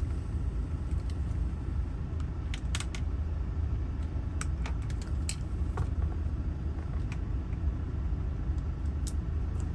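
Scattered small metallic clicks and taps from ignition lock cylinder parts and keys being handled, over a steady low rumble.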